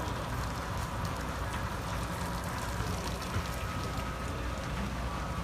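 Steady rain falling, with many small drop ticks landing close to the microphone.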